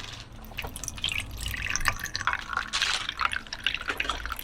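A drink being poured into a cup, splashing and dripping as it fills.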